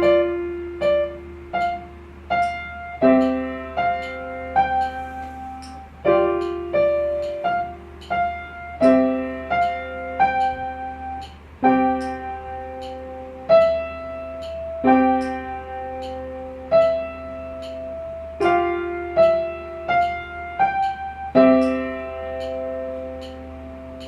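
Piano playing a simple elementary piece at an even, unhurried pace: short phrases of a few struck notes over a low note, each phrase starting again after a held note. The last chord is held and fades near the end.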